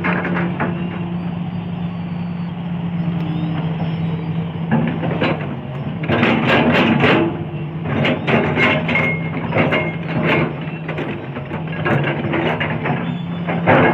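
Sany 210 excavator's diesel engine running steadily. From about halfway through, a string of sharp, irregular knocks and clanks sounds over it.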